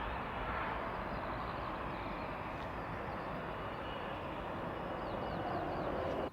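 Jet2 airliner's jet engines at take-off power, a steady even rumble that cuts off abruptly at the end.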